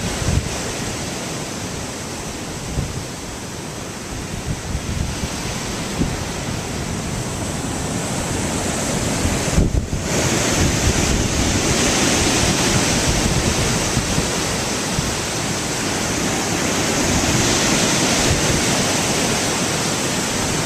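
Ocean surf washing steadily, with wind buffeting the microphone. There is a brief break about ten seconds in, after which the noise is louder and hissier.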